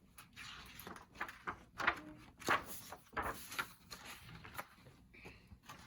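A picture book being handled and its pages turned: a run of short paper rustles and soft knocks.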